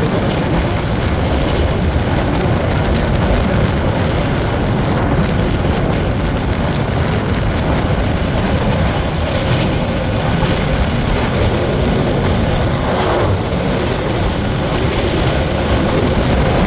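Express passenger train running, a loud, steady noise of wheels on rails.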